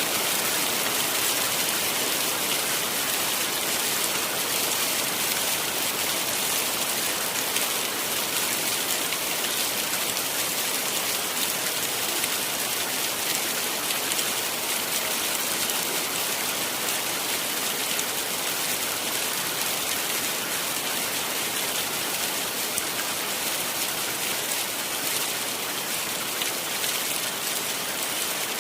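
Heavy rain falling steadily, a dense hiss of drops striking surfaces with fine patter throughout.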